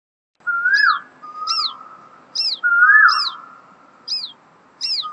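Birds calling: short, high, descending chirps repeat several times, over a lower whistled note that rises and falls. The calls start about half a second in.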